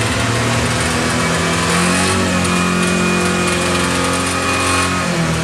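Nissan Cherry 1.5 turbo four-cylinder engine revving hard and held at high revs, pitch dipping near the end. The engine is being deliberately run to destruction and is pouring out thick smoke.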